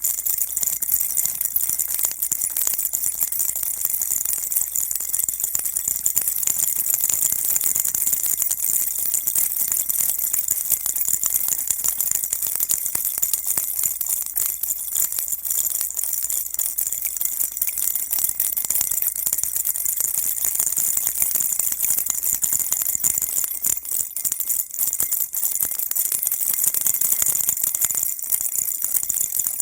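A baby rattle shaken continuously, giving a steady, high-pitched rattling with no pauses.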